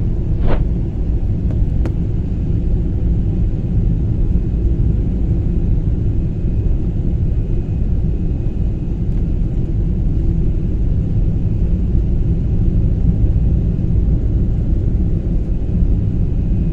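Steady low rumble of a jet airliner landing, with two brief clicks in the first two seconds.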